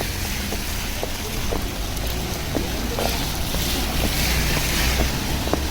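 Rainy street ambience: a steady hiss of rain and wet surroundings with wind rumble on the microphone and scattered small ticks, the hiss swelling in the middle.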